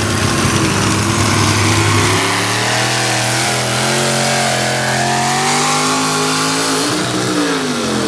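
Tractor-pull tractor engine running hard: it runs low and steady, then revs up about two seconds in and holds high, dipping in pitch near the end before climbing again.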